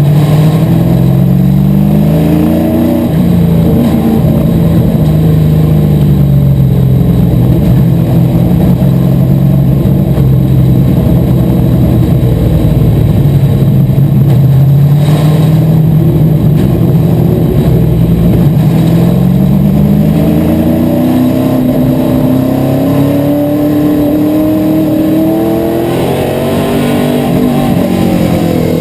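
Asphalt modified race car's engine running hard. Its pitch climbs over the first few seconds, then falls and holds lower and fairly steady for a long stretch. It then rises slowly and steadily again for about eight seconds before dropping off near the end.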